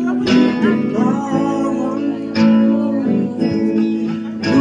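Acoustic guitar strummed in a steady rhythm, with singing.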